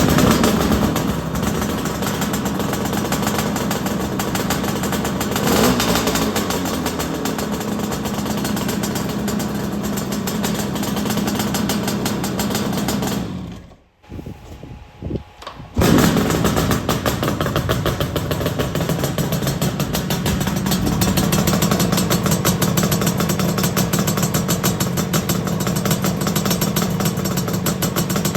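Yamaha RX350's two-stroke parallel-twin engine starting and running, on its newly fitted semi-transistor ignition, with a brief rev about five seconds in. About halfway through it goes quiet, gives a couple of short bursts, then runs steadily again.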